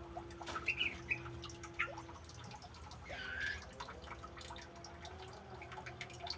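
Caged birds in a garden aviary give short chirps and one harsher call about halfway through, over a steady dripping of water.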